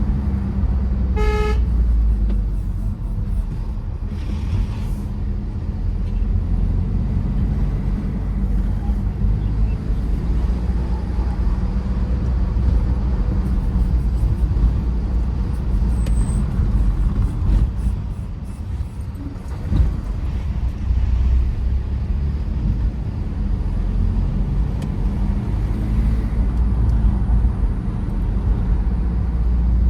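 Tata Safari Storme SUV on the move, its 2.2-litre diesel engine and tyres giving a steady low rumble. About a second in, a short car horn toot sounds once.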